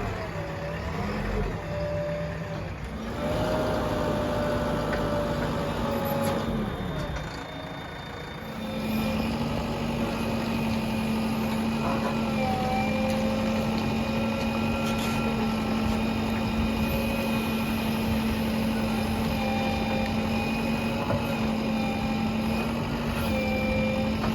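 JCB backhoe loader's diesel engine running while digging, its revs shifting up and down in the first eight seconds or so, then holding steady.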